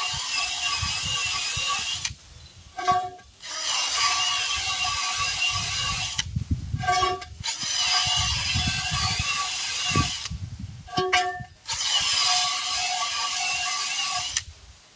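Battery-powered wire wheel scrubbing a steel truck rim's bead seat clean before new tires are mounted. It runs in long stretches with about six short stops, the motor whine wavering as it bears on the metal.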